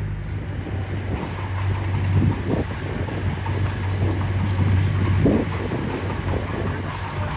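Diesel engine of a mini bulldozer running steadily, with clanking and scraping of the machine working gravel. The clatter grows louder twice, about two seconds in and again about five seconds in.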